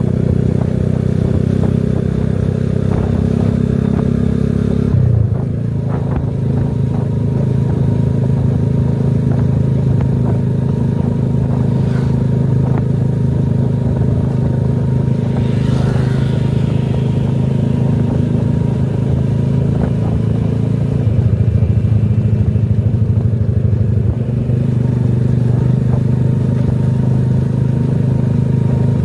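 Small engine running steadily on the move, its note shifting about five seconds in and growing louder and rougher for a few seconds past the middle.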